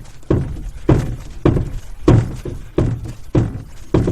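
Regular thunks, about one every 0.6 seconds, from strokes of a double-bladed kayak paddle as a canoe is paddled.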